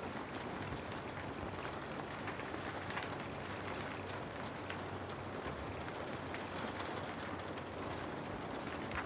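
Steady rain pattering on a window, a dense even hiss with countless small drop ticks.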